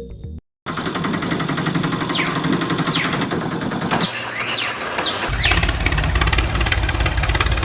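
A small motor running with a loud, steady mechanical noise, with several short whistles falling in pitch. About five seconds in, a low rhythmic pulsing like an engine starting joins in.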